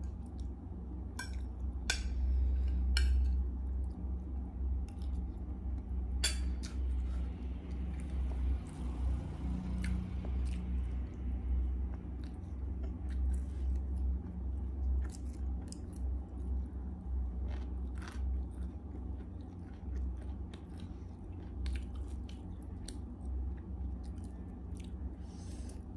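Close-up chewing and crunching of food, with scattered short sharp crackles as raw stink bean (sato) pods are split open and peeled by hand.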